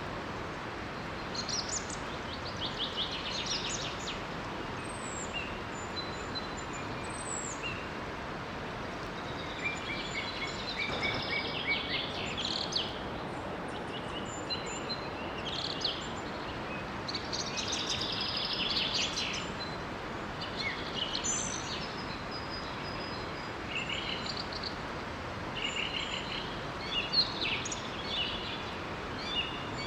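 Songbirds singing in short trills and whistled phrases, on and off, over the steady rush of a small waterfall.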